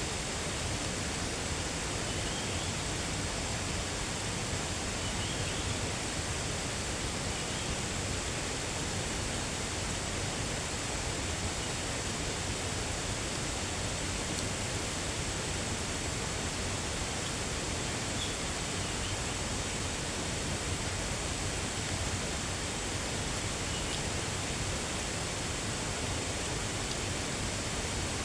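Steady rushing of running water, an even, unchanging hiss, with a few faint high chirps scattered through it.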